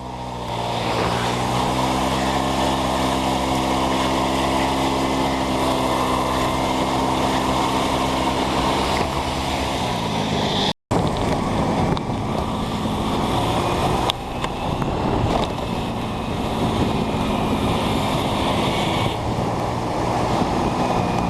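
Motor scooter engine picking up speed and then running steadily under a rushing noise of wind and road. After a brief dropout about halfway, the rushing noise dominates and the engine tone is faint.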